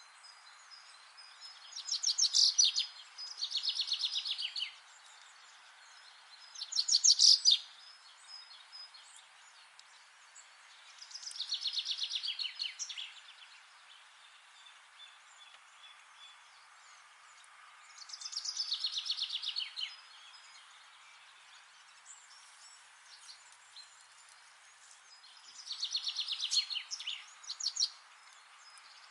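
A songbird singing short, rapid trilled phrases, about six of them, each a second or two long and a few seconds apart, over a steady faint background hiss.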